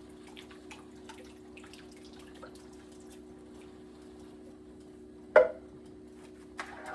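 Small drips and pops from a pot of stew with coconut milk on the stove, over a steady hum. A loud sharp clank of metal against the pot about five seconds in, then a lighter knock near the end.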